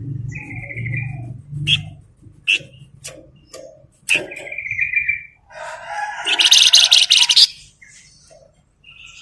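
Songbird singing: short chirps and sharp clicking notes, two brief trilled phrases, and a loud, dense, scratchy chatter lasting about a second and a half near the end.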